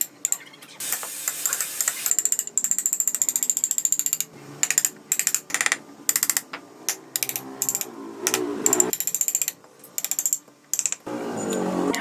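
Wood being worked with hand tools: a run of sharp, rapid, irregular clicks and taps with a short scraping stretch about a second in, and faint music underneath.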